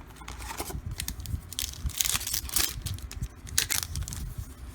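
A 2013 Fleer Retro football card pack wrapper being torn open and crinkled in a series of short tearing rasps, loudest about two seconds in.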